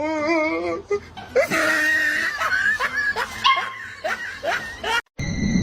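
A dog whining and yipping in many short, high calls, with a wavering call at the start and someone laughing.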